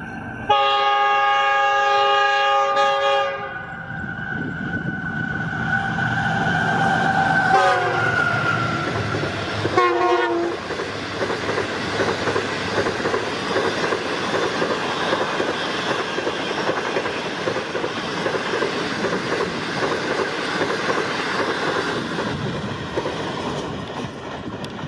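GEU40 diesel locomotive passing at about 104 km/h. It gives a long, loud multi-tone horn blast whose pitch drops as the locomotive goes by, then a short, lower blast about ten seconds in. After that comes the steady rush and wheel clatter of the coaches, fading near the end.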